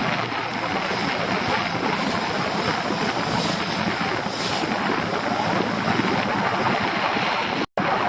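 Small boat under way with its outboard motor running: steady engine and water noise, with the wind rumbling on the microphone. The sound cuts out for a moment near the end.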